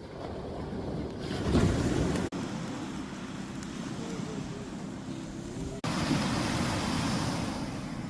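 Sea waves washing on the shore, with wind buffeting the microphone. The sound breaks off and changes abruptly twice, as short clips are joined.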